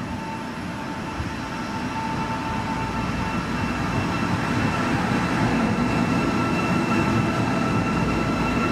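HEMU-430X high-speed electric multiple-unit train running past a station platform: a steady rush of wheels and air with thin, steady whining tones over it, growing slowly louder.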